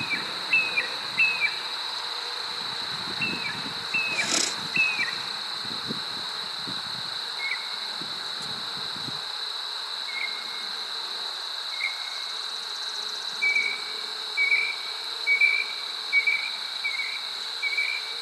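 Insects trilling: a steady high drone with runs of short repeated chirps over it, at the start and again near the end. A single sharp click about four seconds in.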